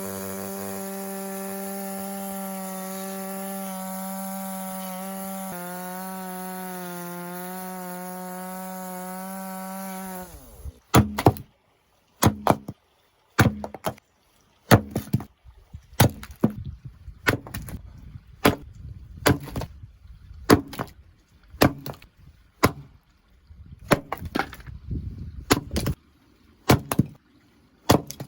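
Chainsaw running steadily for about ten seconds, then stopping. A Husqvarna hatchet then splits firewood with sharp chopping strikes about one a second.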